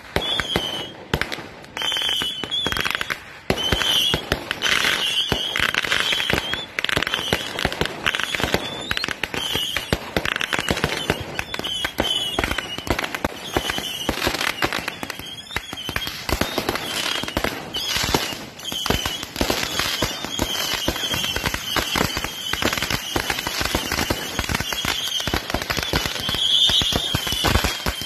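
Fireworks and firecrackers going off in a dense, continuous barrage of rapid bangs and crackles, with a wavering high whistle heard on and off.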